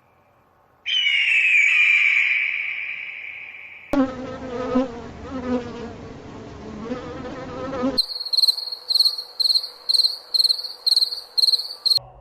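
Three different animal calls, one after another. About a second in, a high call starts and slides down in pitch. About four seconds in, a lower, wavering call takes over. Near the end comes a high-pitched, insect-like chirping at about two chirps a second.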